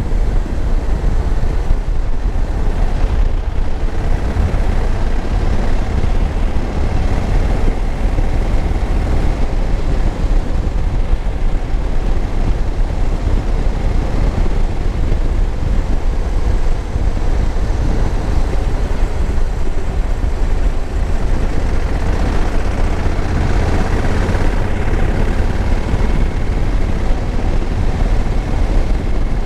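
A 2021 Honda Africa Twin's 1084 cc parallel-twin engine running at steady speed under ride, mixed with steady wind noise on the rider's microphone.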